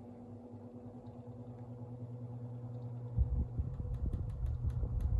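Electric fan motor humming steadily. About three seconds in, uneven low rumbling joins the hum, followed by a run of sharp clicks.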